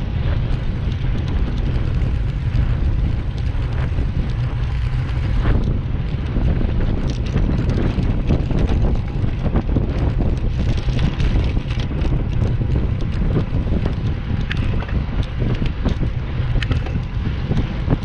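Wind buffeting the microphone while cycling, a steady loud low rumble with scattered small clicks and knocks.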